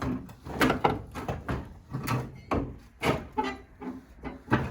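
Repeated metal clunks and rattles, about one or two a second, as the radiator core support of a 1989 Chevy S10 is yanked and wrestled by hand. It is still held fast to the truck.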